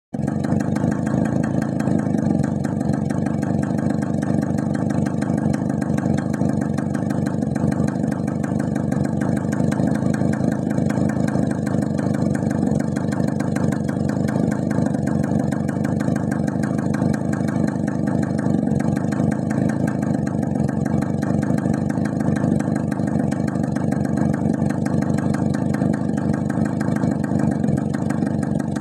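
1969 Suzuki A100's single-cylinder two-stroke engine idling steadily, a fast, even popping from the exhaust.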